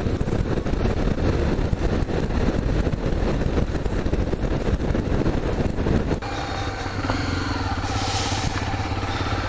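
Honda XRE 300 single-cylinder motorcycle engine running under way, mixed with a dense rush of air noise. About six seconds in the sound changes abruptly to the engine running slower and steadier, with a clear even hum.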